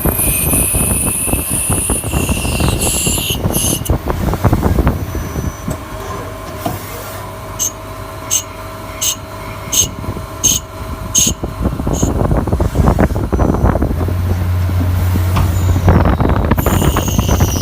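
Metal lathe cutting, the tool screeching with high gliding squeals over a low machine rumble for the first few seconds and again near the end. In the middle comes a run of sharp, evenly spaced clicks.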